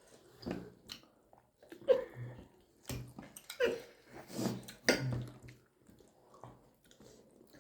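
People eating momos with hot chili chutney: scattered wet chewing, lip smacks and short clicks, with brief breathy hums now and then.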